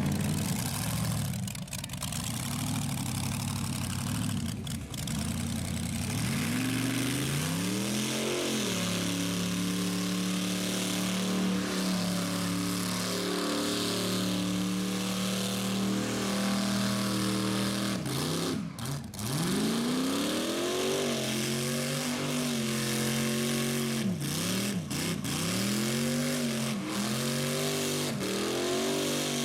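Rat rod engine revving hard during a burnout: it climbs and holds at high revs for about ten seconds, drops off briefly, then is revved up and down repeatedly.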